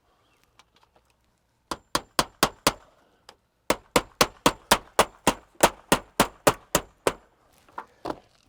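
Hammer blows on metal in quick runs of about four a second: five strikes, a short pause, then about a dozen more, with a faint metallic ring, and two softer knocks near the end.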